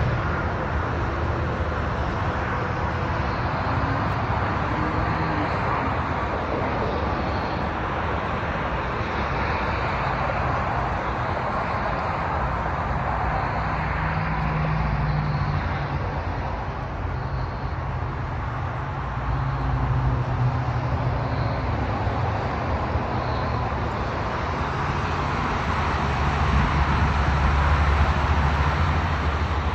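Dodge Challenger SRT Hellcat's supercharged 6.2-litre Hemi V8 idling steadily with a deep low rumble. It grows louder near the end.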